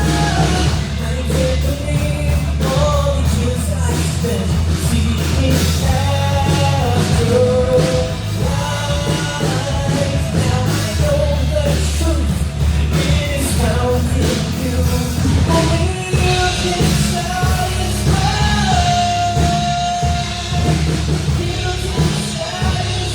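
Rock music: a full band playing under a sung melody.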